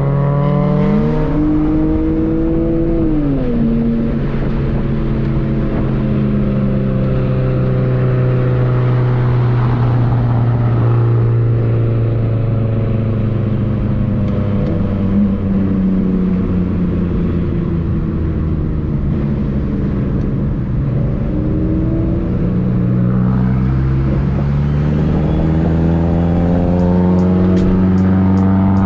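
Car engine running while driving, holding a steady pitch for most of the time. About a second in it briefly rises and falls, and it climbs in pitch as the car accelerates over the last few seconds.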